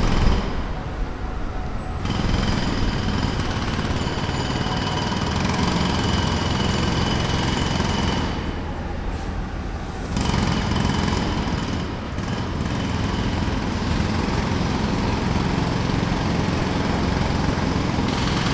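Jackhammer hammering at a construction site in a rapid, dense rattle, easing off briefly about half a second in and again around eight seconds in, over a steady low drone.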